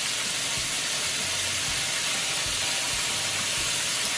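Chicken pieces frying in hot oil in a skillet: a steady sizzle.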